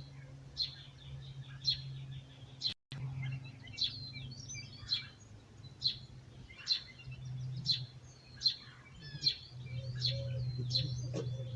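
Birds chirping at dawn, short high chirps repeating about once a second, over a steady low hum.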